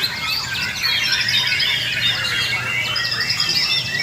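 Many white-rumped shamas (murai batu) singing at once in a contest-style chorus, a dense overlapping run of fast whistles, trills and chattering phrases, over a low steady hum.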